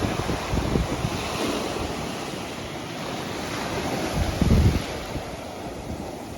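Sea waves washing onto a beach as a steady hiss, with wind buffeting the microphone in low rumbling gusts, the strongest about four and a half seconds in.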